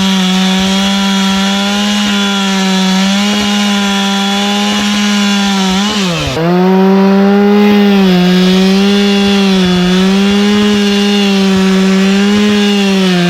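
Two-stroke Stihl chainsaw held at high revs, cutting wood, with a steady high engine note. About six seconds in the pitch drops sharply as the throttle comes off, then climbs straight back up and holds.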